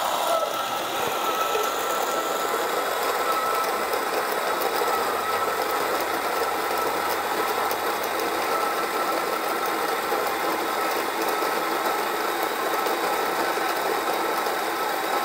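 Lelit PL044MM espresso grinder running, its 150-watt motor turning 38 mm conical burrs to grind freshly roasted coffee beans into a portafilter. The sound is a steady whir with a constant high tone.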